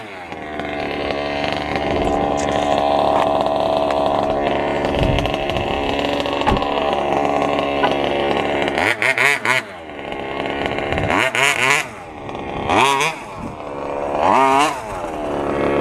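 Small two-stroke petrol engine of an FG large-scale RC stadium truck, just started on the first pull. It runs at a steady speed for the first half, then is revved up and back down about four times.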